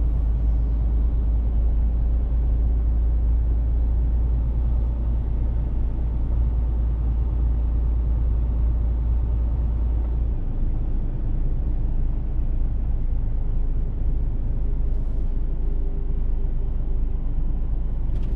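Mercedes-Benz Actros truck's diesel engine and tyres running on the road: a steady, deep rumble that lightens slightly about ten seconds in.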